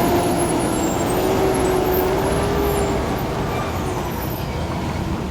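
A heavy truck's engine running in passing road traffic, a steady rumble with a faint steady tone through the first three seconds.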